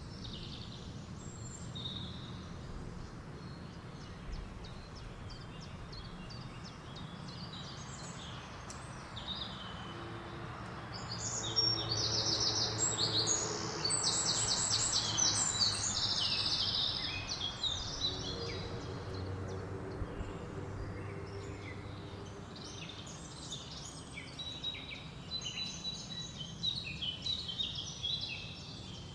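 Several songbirds singing and calling over a steady wash of wind through leaves, with a louder stretch of rapid trilling near the middle.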